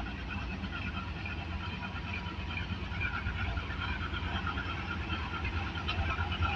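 Pakistan Railways AGE-30 diesel-electric locomotive engine running steadily at low revs, a constant low rumble.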